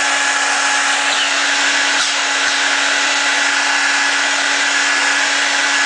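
Hair dryer running steadily, a constant blowing rush with a steady motor hum under it.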